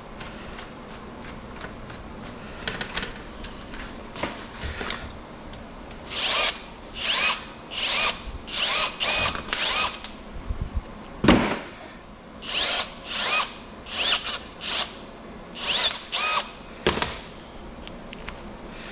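Power drill run in about a dozen short bursts, each one briefly spinning up with a rising whine, as on screws or fittings. There is one loud knock about halfway through.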